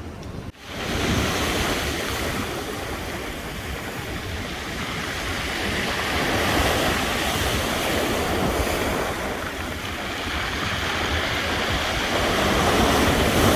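Sea surf breaking and washing on the shore in slow swells, with wind buffeting the microphone.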